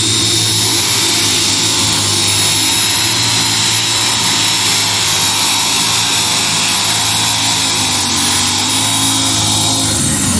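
Pulling tractor's engine running at full power during a pull, loud and steady, with a high whine on top that falls away near the end.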